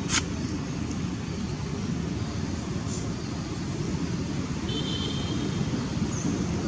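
Steady low rumble of background noise, with a sharp click just after the start and a brief faint high tone about two-thirds of the way through.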